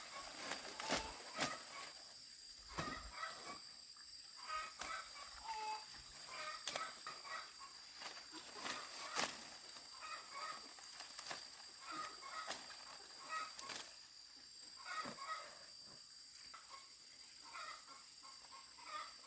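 Chickens clucking in short, repeated bursts, with scattered sharp clicks and knocks.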